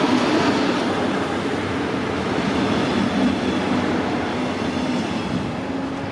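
Train running past on the tracks: a steady noise of wheels on rail with a faint hum, slowly fading.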